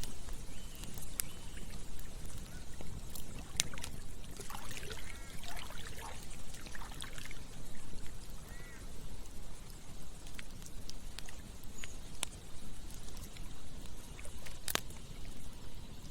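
Campfire crackling, sharp pops scattered over a steady low rush, with one loud pop near the end. About a quarter of the way in comes a few seconds of trickling, gurgling water-like sound.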